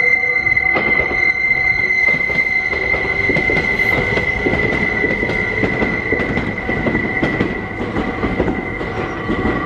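Meitetsu electric train passing at the line junction, its wheels giving a steady high-pitched squeal on the curve. Wheels clatter over rail joints and points, growing busier from about three seconds in.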